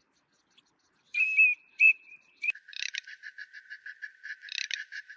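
A bird gives two short whistled, warbling calls. About halfway in, a frog starts a rapid, even pulsed call of about five pulses a second.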